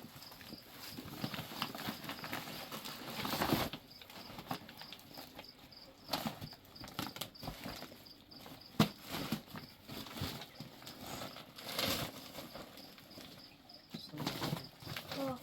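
Irregular rustling and scuffing with scattered clicks, one sharper click about nine seconds in, over a cricket chirping steadily in quick even pulses.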